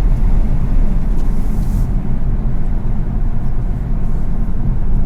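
Steady low rumble of a car driving along a street, from its engine and tyres.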